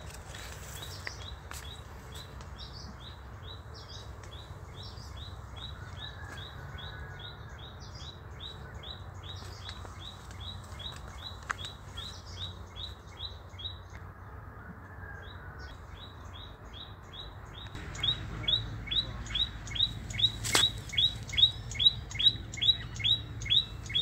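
A bird repeating one short, high, upward-sliding chirp over and over at an even pace, about two to three a second, growing clearly louder about three-quarters of the way through.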